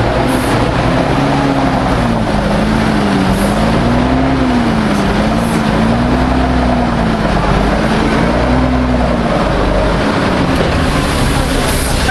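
MAN 32.281 tipper truck's diesel engine running loud and steady, with a tone that rises and falls every second or so.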